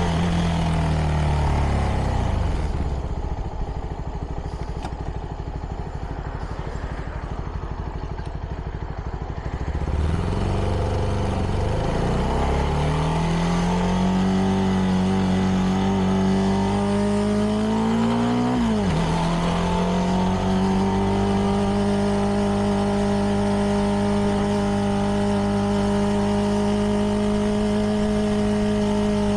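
CFMoto 300NK single-cylinder engine through its stock exhaust, heard from the rider's helmet. The revs fall at the start and it runs low and quieter for several seconds, then pulls up through the revs. A gear change about two-thirds of the way through drops the pitch suddenly, and it settles into a steady cruise.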